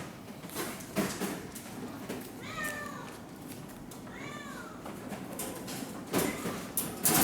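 Bengal cat meowing twice, each meow a short rise and fall in pitch, with scattered knocks and rustles, the loudest near the end.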